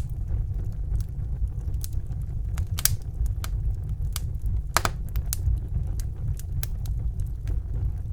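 Wood fire burning in a fireplace: scattered sharp crackles and pops, the loudest a little under 3 seconds in and near 5 seconds, over a steady low rumble of the flames.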